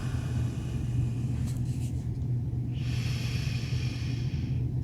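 Steady low background hum, with a soft hiss rising in about three seconds in and stopping near the end.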